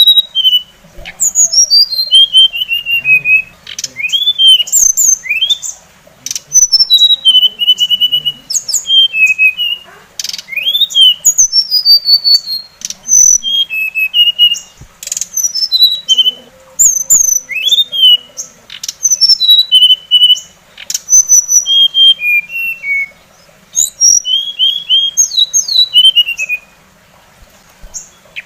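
Songbird singing a fast, varied song of clear whistled notes, chirps and quick falling and rising sweeps, delivered in phrases of a second or two with short pauses between them.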